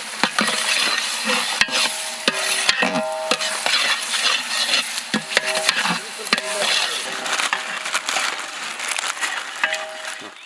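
Fried onions and ginger-garlic sizzling steadily in a large pot of hot oil while a metal ladle stirs, scraping and knocking against the vessel with short ringing clanks.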